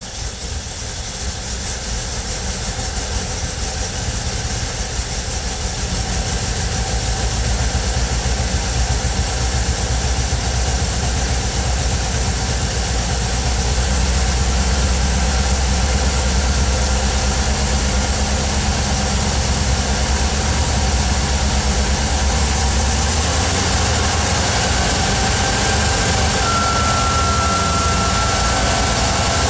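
Volkswagen Vanagon 2.1-litre water-cooled flat-four engine running, its level climbing over the first dozen seconds and then holding steady. Near the end a thin, steady high-pitched hum comes in, the noise from behind the instrument cluster that shows up when the throttle is advanced.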